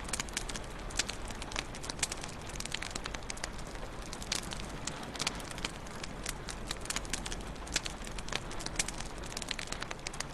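Wood fire crackling in a fireplace: irregular sharp pops and snaps, several a second, over a steady low hiss of the burning fire.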